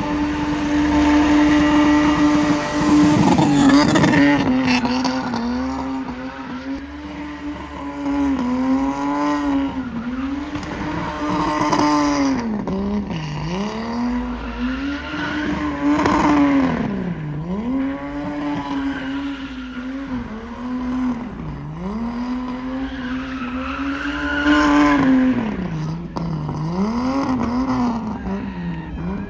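A car engine held at high revs while drifting, the revs dropping sharply and climbing back again every two to four seconds, with tyre squeal.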